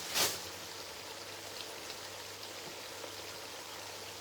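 Red palm oil with blended onion, ginger and garlic frying in a pot for a stew base: a steady, even sizzle. A short louder noise comes right at the start.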